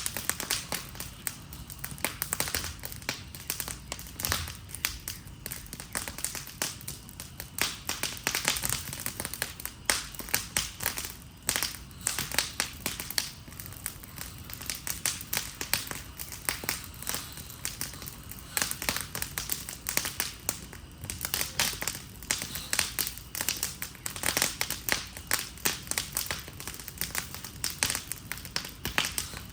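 Wood fire crackling as a wooden Adirondack chair burns: a dense run of sharp, irregular snaps and clicks.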